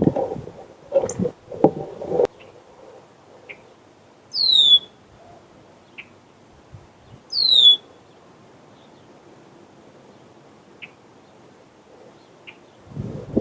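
Bird calls: two loud, clear whistles about three seconds apart, each sliding downward in pitch, with a few short faint chirps between them. Knocks and scuffles come in the first two seconds and again just before the end.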